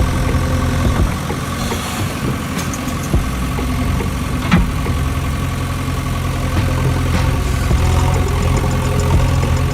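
A motor engine idling steadily, with a few short clicks.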